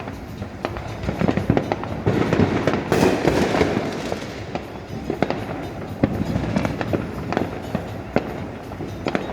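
Fireworks going off: a rapid, irregular run of bangs and crackles, thickest and loudest from about two to four seconds in, with a big burst around three seconds.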